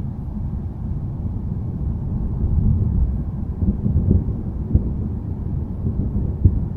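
Low rumble of distant thunder that swells over the first few seconds, with a few short sharp cracks in the second half.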